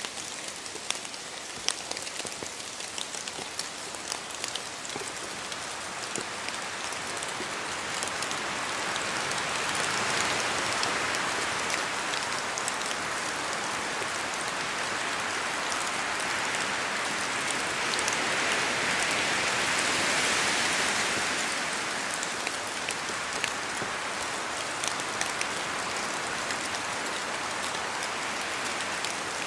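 Steady rain falling in a forest with wind, with individual drops ticking sharply from the trees, most of them early on and near the end. The rush swells twice, about a third and two thirds of the way in, as gusts pass through.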